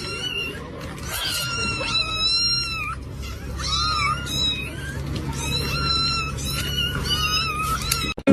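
A cat meowing over and over, a string of high, drawn-out cries that bend in pitch, about one a second, over a steady low hum.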